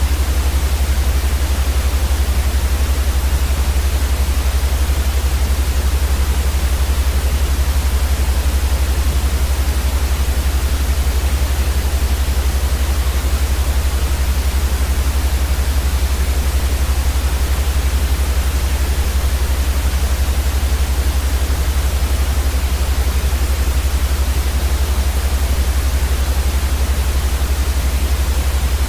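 Steady, unchanging white noise: an even hiss across the whole range over a strong, deep low rumble, made as a sleep sound for babies.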